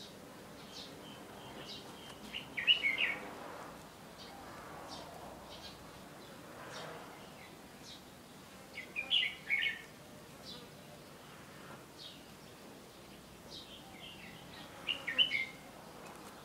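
A bird calling: three short bursts of rapid high chirps about six seconds apart, with faint single chirps between them.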